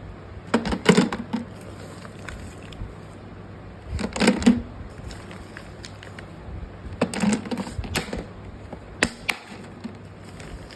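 Naphthalene balls and their packaging being handled, giving bursts of small hard clicking and rattling: three short flurries, then two single sharp clicks near the end.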